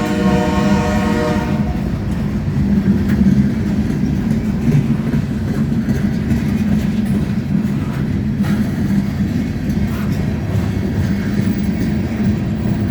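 Freight train locomotive horn sounding a chord, cutting off about a second and a half in. Then the diesel locomotives run with a steady low rumble as the freight cars roll past, with scattered clicks from the wheels over the rail joints.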